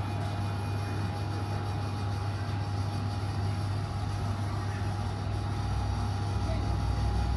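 Steady low hum of an airport terminal's background, with a faint thin steady tone above it; the low drone grows a little louder near the end.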